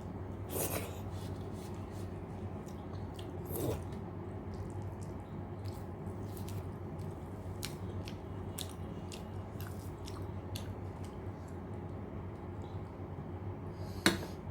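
Close-up chewing of a rice, dal and fried-vegetable meal: many small wet mouth clicks and smacks, with a couple of louder bites early on, over a steady low hum. One sharp tap near the end.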